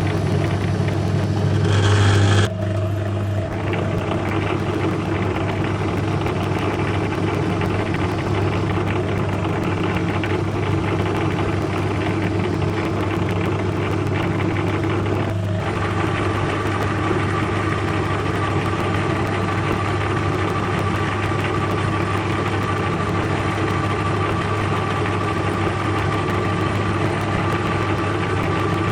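A metal lathe runs with a steady low hum while turning a small stainless steel part. A louder cutting noise in the first couple of seconds stops abruptly, and a thin steady whine joins the hum from about halfway.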